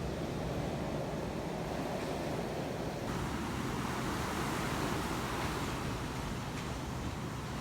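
Sea surf washing ashore in a steady rush, with wind on the microphone; the rush swells a few seconds in.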